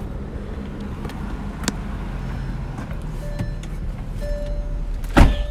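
Car engine idling, a steady low rumble heard from inside the cabin. A sharp click comes about a second and a half in and a louder knock near the end, from the phone and mount being handled.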